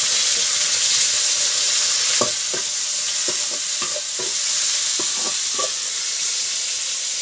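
Chopped tomatoes sizzling in hot oil with fried onions in an aluminium kadhai: a steady loud hiss, with a metal spatula scraping and stirring against the pan in a run of short strokes from about two seconds in.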